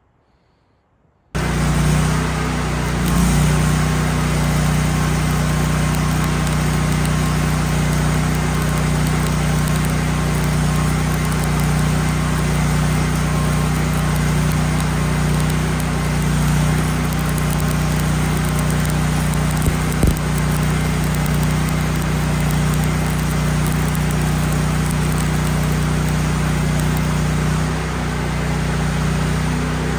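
Miller Bobcat 250 welder's gas engine running steadily, starting abruptly a little over a second in, under a continuous even hiss typical of a stick-welding arc.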